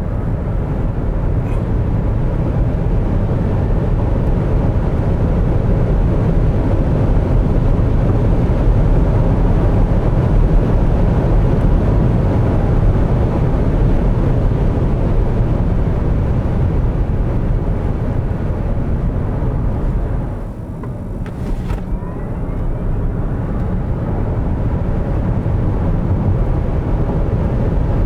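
Road and wind noise inside the cabin of a Smart #5 BRABUS electric car accelerating at full power on a motorway, a steady rush heaviest in the bass that grows louder over the first ten seconds or so. It dips briefly about two-thirds of the way through, then builds again.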